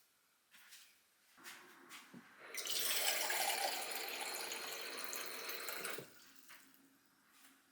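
A kitchen tap running into a sink for about three and a half seconds, then shut off, after a few light knocks.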